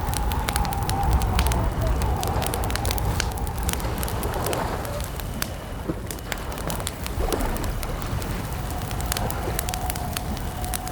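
Wood campfire crackling, with sharp pops scattered irregularly over a steady low rumble.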